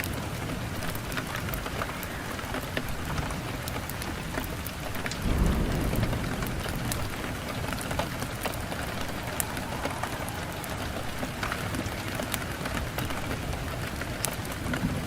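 Wood fire crackling in a fireplace: a steady hiss dotted with frequent sharp pops, and a low rumble that swells briefly about five seconds in.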